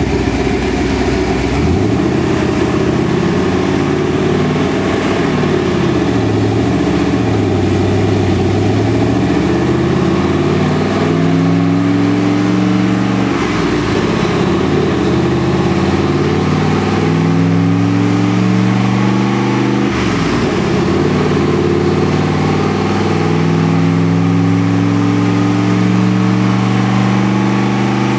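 Twin-turbo 402-cubic-inch V8 of a Trans Am under load on a chassis dyno, at 17 psi of boost. It revs up and down for several seconds, then climbs in pitch in three long rising pulls, with sudden drops in revs about halfway and again near two-thirds of the way through, like gear changes.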